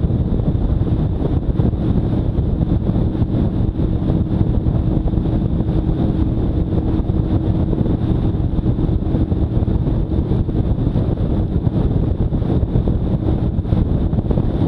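Motorcycle engine running at a steady speed under heavy wind noise on the microphone, as heard while riding.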